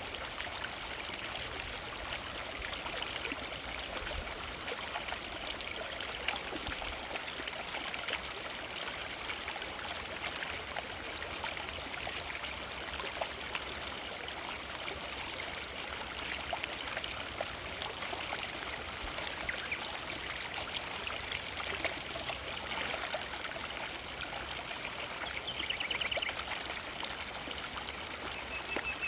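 Forest river flowing steadily, an even rush of water over stones. A few short, high chirps sound over it in the second half.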